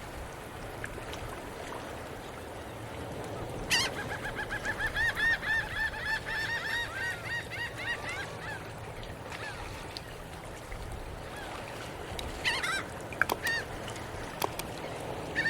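A bird calling: a rapid run of repeated, arching notes for about four seconds, then a few shorter calls near the end, over steady low background noise.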